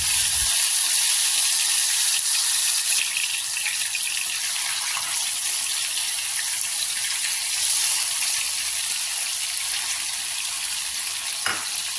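Chicken leg pieces, marinated in masala and milk, sizzling steadily in hot oil in a nonstick pan as they shallow-fry.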